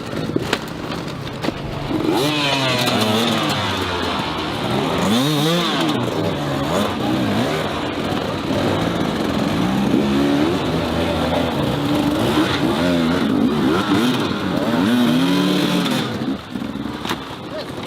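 Dirt bike engines revving hard and shifting, their pitch rising and falling again and again as several bikes race close together.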